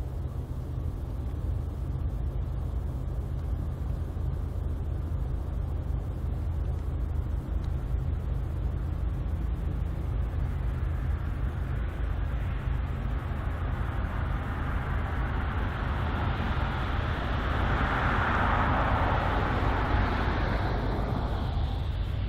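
A vehicle passing over a steady low rumble, swelling to its loudest near the end and then fading.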